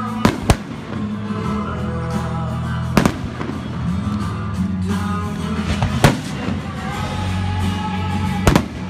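Aerial firework shells bursting: two sharp bangs close together near the start, then single bangs about three seconds and six seconds in and near the end. Music plays throughout.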